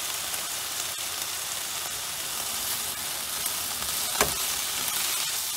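Chicken breast, vegetables and mushrooms sizzling steadily in a hot frying pan as they are stirred with a spatula. A single sharp knock comes about four seconds in.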